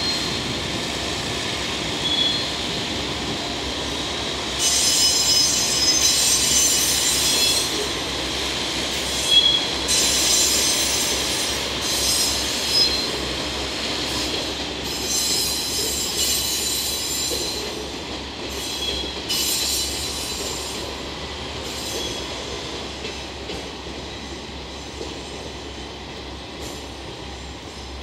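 KiHa 47 diesel railcars of a five-car train rolling slowly over pointwork, the steady rumble broken by repeated high-pitched bursts of wheel squeal. The squealing stops past the middle and the train fades as it draws away.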